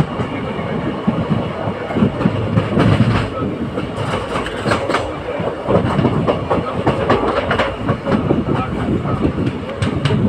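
Moving passenger train heard from on board: a steady running noise with irregular clattering of the wheels over the rails.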